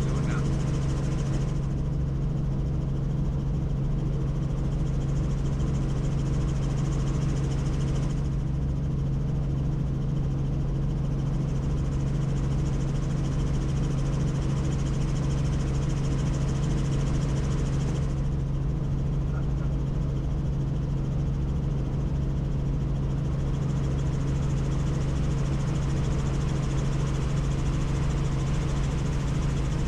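Tour helicopter in flight, its engine and rotors making a steady drone with a strong low hum.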